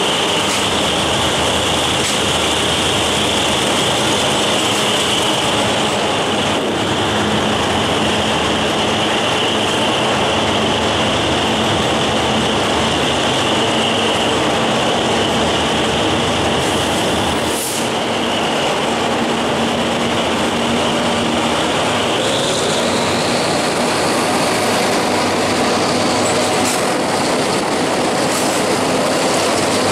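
Passenger train running along an elevated track, heard from an open carriage window: a steady rumble and rush of wind with a high whine from the wheels that steps up in pitch about two-thirds of the way through, and a single knock a little past the middle.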